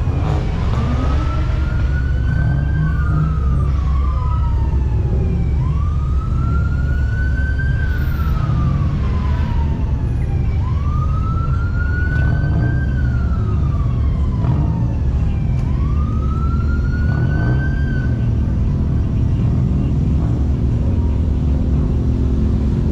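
Emergency vehicle siren on a slow wail, rising and falling about every five seconds for four cycles, then stopping near the end. A heavy low rumble runs underneath.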